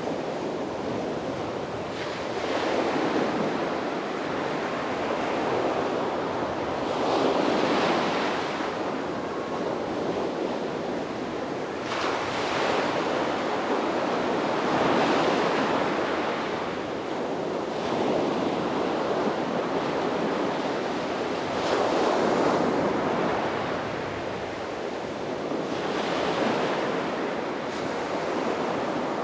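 Sea waves breaking on a beach, the surf swelling and easing every three to four seconds, with some wind on the microphone.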